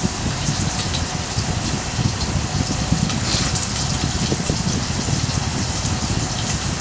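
Wood fire burning in a small fire stand: a steady rushing noise with many small scattered crackles and pops.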